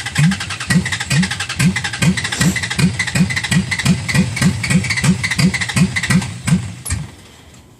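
Carbureted Dodge Ram engine being cranked over by its starter on a hard cold start, a steady chug of about three compression strokes a second that never catches. The cranking stops about seven seconds in: the engine has not fired.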